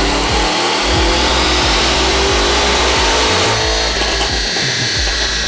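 Third-generation Cadillac CTS-V's supercharged 6.2-litre V8 revving up steadily under load on a chassis dynamometer, its pitch rising with a high whine; about three and a half seconds in the rising pitch breaks off and drops to a lower, steadier note. A backing music track with a steady beat plays underneath.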